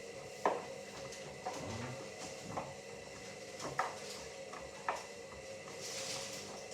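Hoover Dynamic Next 7 kg washing machine in the wash phase of a Rapid 14-minute 30° programme: a steady motor hum with irregular knocks and clunks about once a second as the drum turns the load of sheets, and a short swish of water near the end.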